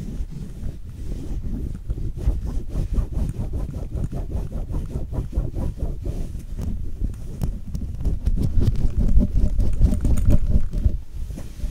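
Close-miked ASMR clicking and tapping: a rapid, irregular run of hollow clicks, many a second, growing louder for a few seconds near the end.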